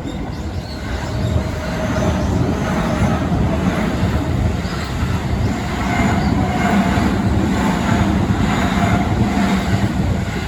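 Commuter train passing a railway level crossing: a loud, steady rumble of wheels on the rails that builds over the first couple of seconds.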